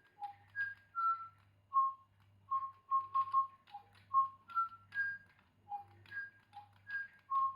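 A DigiBird toy bird whistling a tune in short, clipped notes that step between a few fixed pitches, about two to three notes a second, over a faint steady electrical hum.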